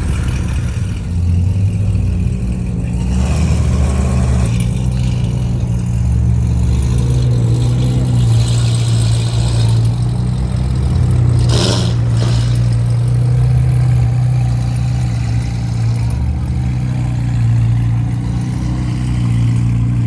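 Car engines running, with revs rising and falling over a steady low rumble, and one short sharp noise a little past halfway.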